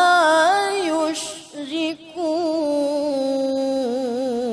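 A male Qur'an reciter chanting unaccompanied in melodic tajwid style, drawing out long ornamented notes with a wavering, trilling pitch. There is a brief break in the voice about a second and a half in, before he goes on holding a long, steady phrase.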